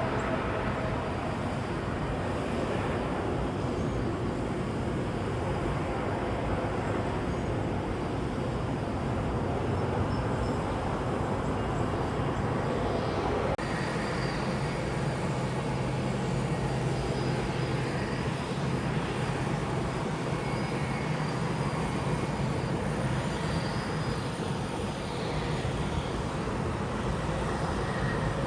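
Jet airliner engines running, a steady broad rush. About halfway through the sound changes abruptly to a steadier low hum with a faint high whine.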